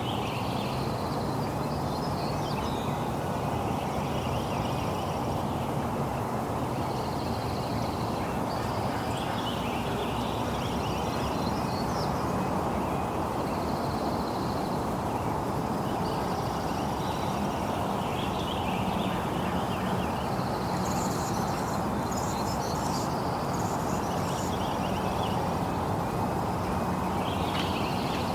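Steady rain, with birds calling on and off above it every couple of seconds.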